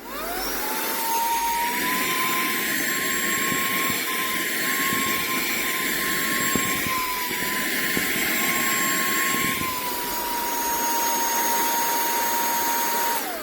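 SERVOMASTER cordless handheld vacuum cleaner switched on, its motor whine rising quickly to a steady high pitch with a rush of air, the note dropping slightly about ten seconds in. It is switched off near the end and winds down.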